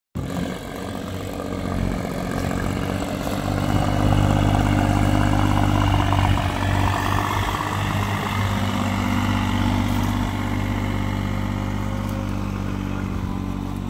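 An engine running steadily, a little louder from about four to six seconds in.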